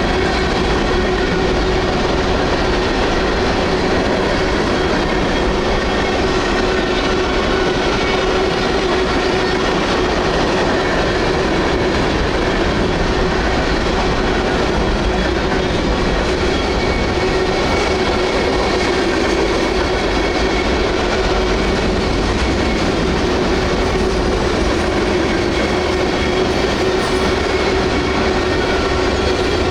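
Freight train rolling past at close range: a loud, steady rumble of steel wheels on rail that runs on without a break.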